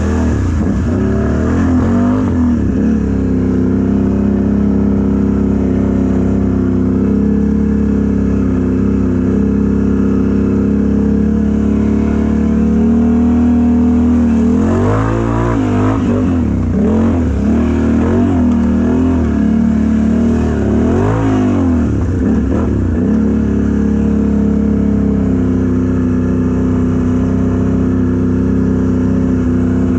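Mega truck's engine running steadily, then revved up and down in a series of throttle blips through the middle stretch before settling back to a steady run.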